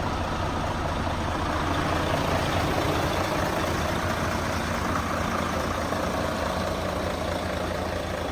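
Mercedes-Benz Actros 1846 truck's V6 diesel engine idling steadily.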